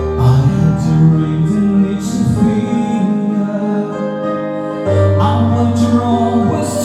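A singer singing a slow pop ballad through a microphone over a keyboard-led backing track, holding long notes with vibrato.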